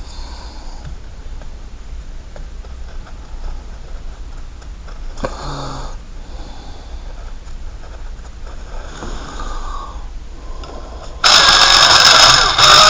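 Faint scratching of a pen or marker drawing on paper over a low background hiss. About eleven seconds in, a much louder noisy sound starts suddenly: the opening of a rooster crow.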